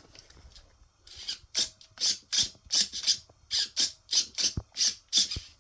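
Large-scale RC truck steering servos whirring as the steering is swung back and forth, in quick short bursts about three a second. The servos are being checked after a loose connector was reseated, and both are now working.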